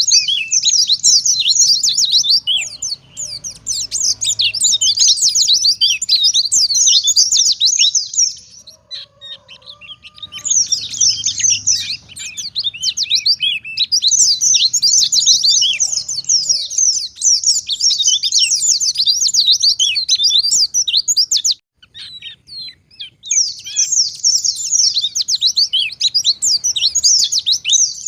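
White-eye (pleci) singing a fast, high twittering song in long unbroken runs, breaking off briefly twice.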